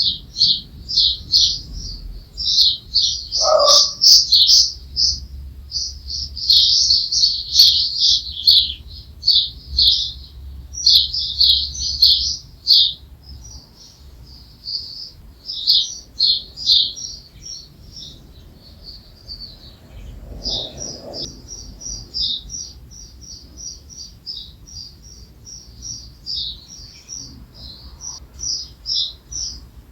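Small songbirds chirping and twittering in quick runs of high notes, densest in the first half, then sparser repeated chirps.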